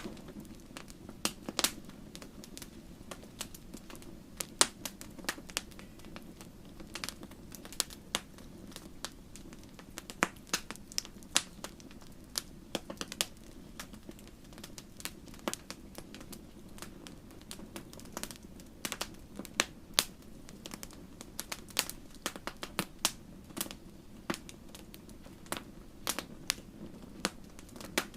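Wood fire crackling: many sharp, irregular pops and snaps over a steady low hiss of burning.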